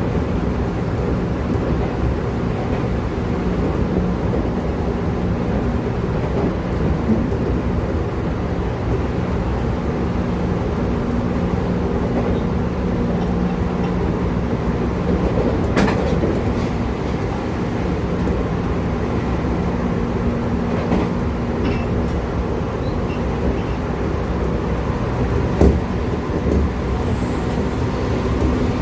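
Running sound inside an 811 series electric multiple unit motor car at speed: a steady rumble of wheels on rail, with a low hum from the drive that shifts pitch now and then. A couple of sharp knocks come from the track, one about halfway through and one near the end.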